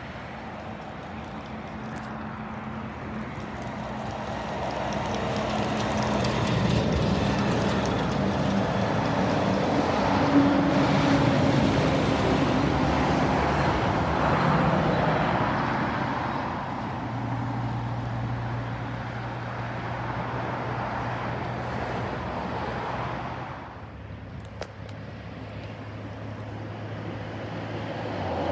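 Trucks and other road traffic passing. Engine and tyre noise swells to a peak about ten to fifteen seconds in, then a low steady engine drone holds, drops off briefly near the end and builds again.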